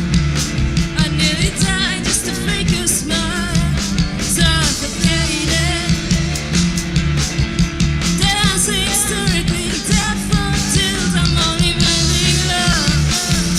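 Rock band playing: drums, electric guitars and bass, with a wavering lead melody carried over the top.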